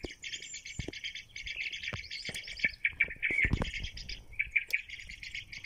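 Dense, continuous chirping of many small birds, rapid overlapping calls with no pause, with a low thump about three and a half seconds in.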